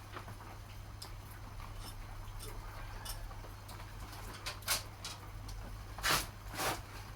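Small ticks and scrapes of hands handling screws and tools while fitting a motorcycle ignition pickup, with three louder brief scraping rustles near the end over a steady low hum.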